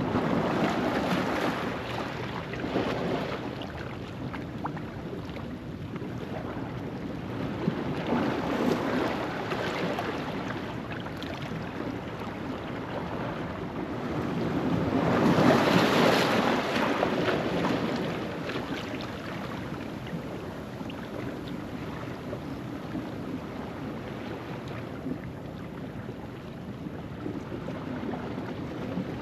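Ocean waves washing over a rocky shoreline at low tide, a steady rush that swells in slow surges, the biggest about halfway through.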